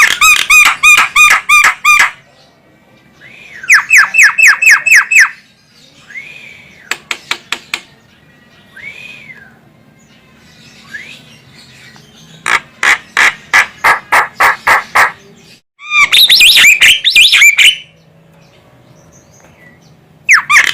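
Female Javan myna (jalak kebo) calling, a call used to lure other jalak kebo. It gives repeated bursts of rapid, harsh chattering notes, several a second, each burst lasting one to two seconds. A few short, soft rising-and-falling whistles come between the bursts.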